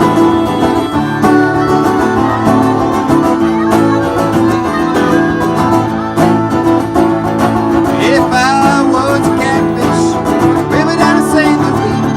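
Old-time band playing an upbeat instrumental passage on plucked strings.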